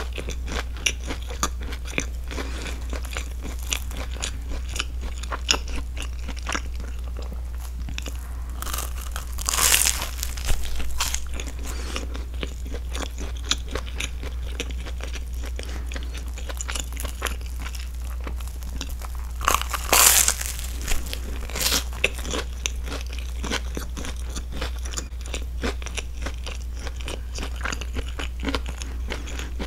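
Close-miked chewing of a grilled broccoli and cheese sandwich: the toasted bread crunches, with many small wet mouth clicks, and there are two louder bursts about ten and twenty seconds in. A steady low hum runs underneath.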